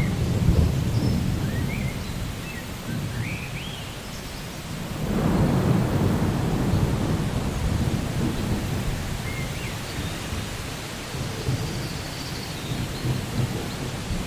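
Steady rain with rolling thunder: a low rumble swells about five seconds in and slowly fades under the rain.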